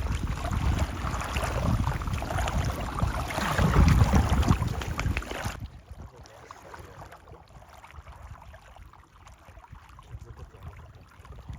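Wind buffeting the microphone over lake water, with water sloshing and splashing. It cuts off suddenly about halfway through, leaving a faint, even water-and-wind noise.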